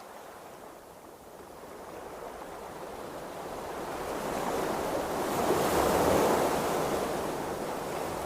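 Ocean waves washing, the rush of water swelling to a peak about six seconds in and then easing off.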